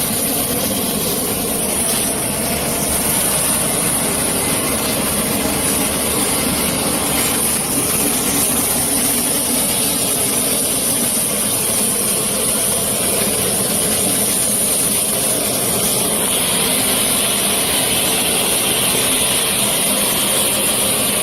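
Military transport aircraft's turbine engines running steadily: a constant rushing noise with a high-pitched whine held on one note.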